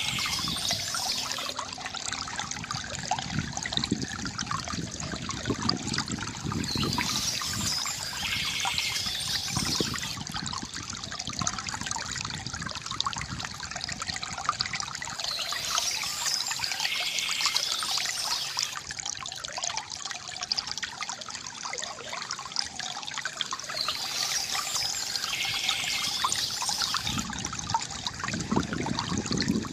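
River water gurgling and trickling steadily, with a brighter, higher-pitched patch of sound returning about every eight seconds.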